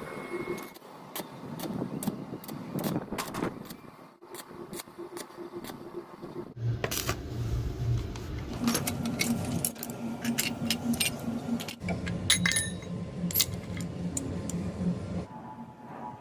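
Small metal parts clinking and tapping. About six and a half seconds in, a machine starts with a steady hum and crackling clicks, then cuts off about a second before the end.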